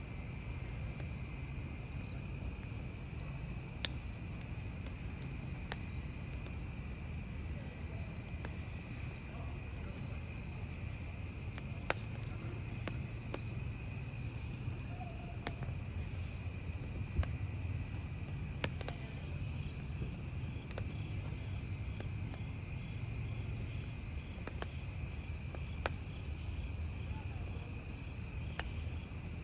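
Crickets trilling steadily, with a higher chirp repeating in short pulses a little over a second apart, over the low rush of a wood campfire that gives a few sharp crackles and pops.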